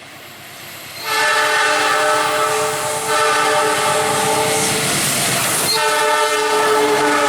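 Locomotive's multi-tone horn sounding loud blasts, starting about a second in, with a short break and then a longer gap before it sounds again near the end. Train running noise is heard underneath.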